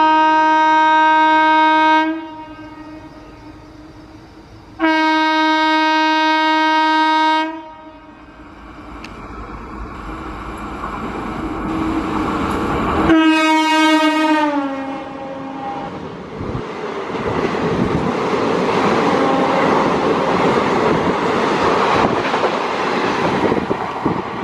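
WAP-5 electric locomotive hauling a passenger train sounds its horn in two long steady blasts as it approaches at speed. A third, shorter blast drops in pitch as the locomotive passes close by, and then the coaches run past with loud, rushing wheel noise and rail clatter.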